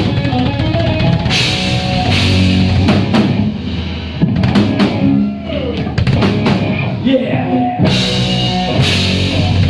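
Live rock band playing loudly: full drum kit with bass drum and cymbal crashes, over distorted electric guitars and bass.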